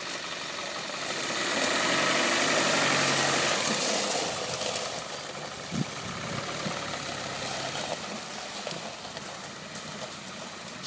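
Land Rover Defender 130's 300Tdi four-cylinder turbodiesel running as it pulls away. It grows louder over the first few seconds, then fades as the vehicle drives off.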